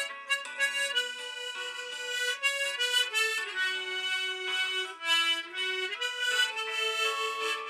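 Harmonica playing a slow song melody, with held notes stepping from pitch to pitch and several notes sounding together.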